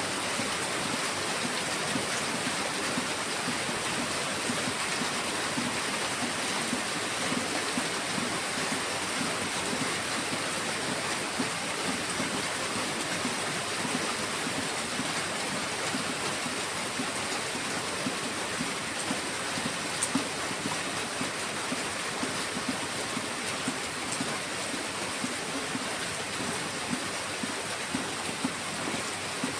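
Heavy rain falling steadily: a dense, even hiss with scattered louder drop impacts.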